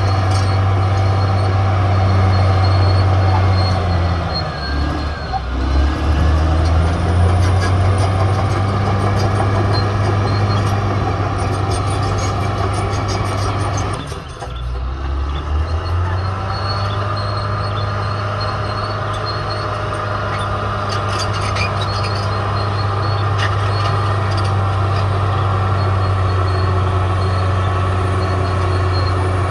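Caterpillar D6R XL bulldozer's diesel engine running steadily at working revs. Its note dips and recovers twice, about five and fifteen seconds in.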